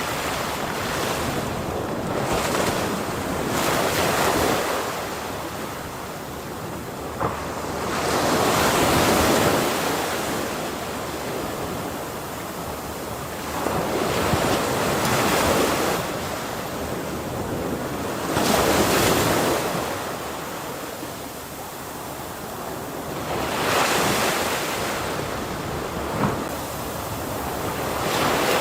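Ocean waves breaking on a shore, each surge of surf swelling and falling away, about every five seconds.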